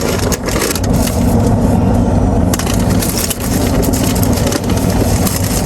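Paper burger wrapper crinkling and crackling as it is unwrapped and handled, over a steady low hum.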